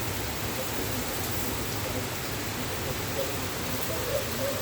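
Torrential thunderstorm rain pouring down, a steady, even hiss.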